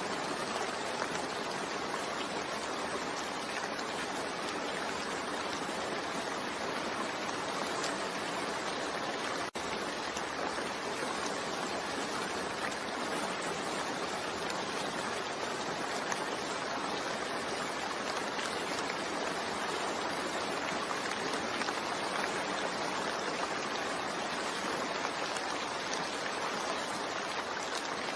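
Steady heavy rain, an even hiss of falling water, with a momentary break about nine and a half seconds in.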